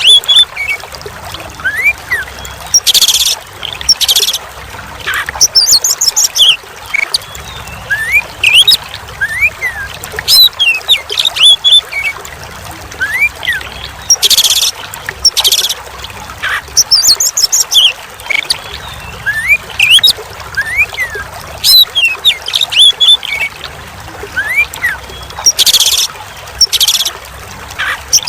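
Oriental magpie-robin (kacer) singing: quick rising whistles, chirps and fast trills, over trickling water. A looped recording, the same phrase pattern repeating about every eleven and a half seconds.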